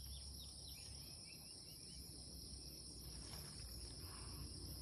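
Faint, steady high-pitched drone of insects singing, one note unbroken and a higher one wavering, with a few short chirps on top.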